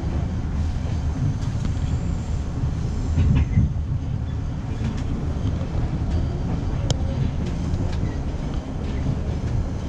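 Passenger train running along the track: a steady low rumble of wheels and carriage, with a few sharp clicks and knocks from the rails.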